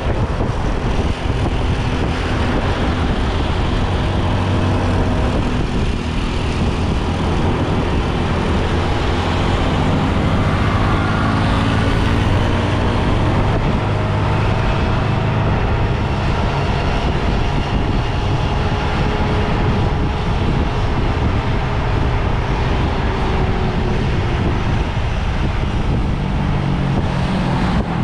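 Motorbike engine running on the move, its pitch slowly rising and falling as the speed changes, over a steady rush of wind and road noise.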